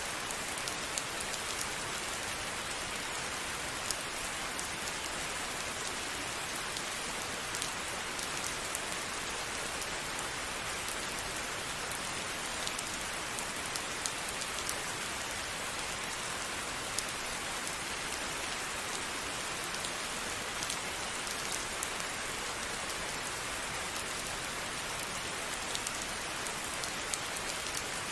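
Steady rain falling on a surface: a constant hiss of rainfall with many separate drops ticking through it.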